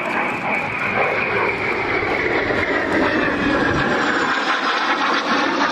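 Airplane flying past, its engine noise steady and loud with a high whine that slowly falls in pitch.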